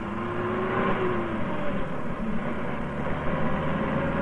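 Radio-drama sound effect of a car engine running steadily as the vehicle drives, a continuous hum with a slowly shifting pitch.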